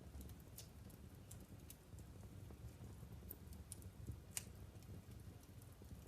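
Logs burning in a wood fireplace: faint, scattered crackles and pops over a low, steady rumble, with one sharper pop about four seconds in.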